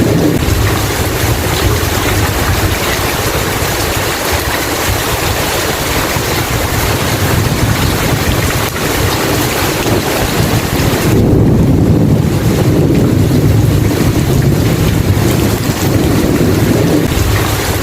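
Steady heavy rain with a low rolling rumble of thunder that swells about eleven seconds in and lasts several seconds.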